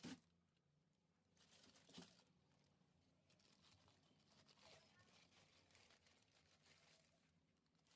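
Near silence, with a faint knock right at the start, another about two seconds in, and faint rustling between them.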